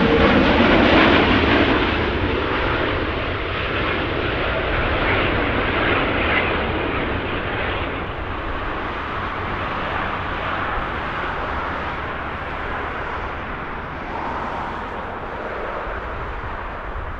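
Jet airliner's engines as it comes in to land, a loud rushing roar that is loudest at the start and fades steadily as the aircraft moves away.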